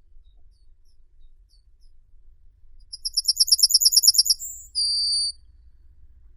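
A songbird singing one phrase: a fast trill of about a dozen notes a second for roughly a second and a half, then a brief higher note and a short steady whistle.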